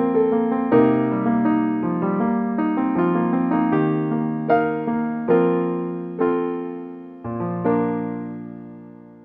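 Background piano music: gentle single notes and chords, slowing toward the end and closing on a held chord that fades away.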